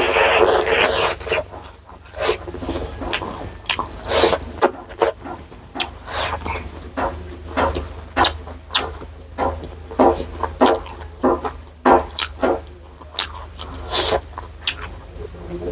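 Close-miked eating sounds: a long wet slurp in the first second or so, then irregular wet chewing and mouth smacks.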